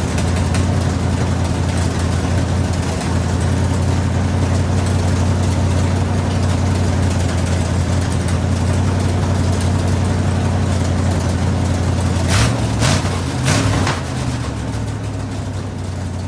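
Chevrolet 454 big-block V8 from a Squarebody truck running at a steady idle. A few short revs come near the end, then it settles to a quieter idle.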